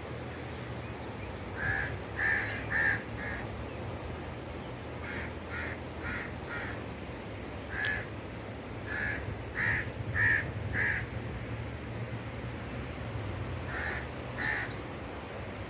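A bird calling in short, repeated calls, mostly in runs of three to five with pauses between the runs, over a steady low hum.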